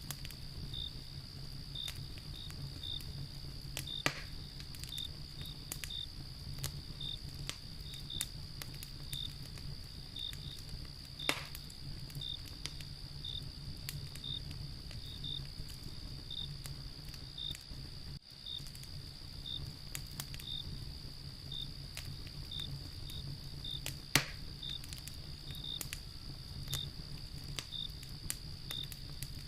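Wood fire crackling, with scattered small clicks and three louder pops, over a steady chorus of crickets chirping.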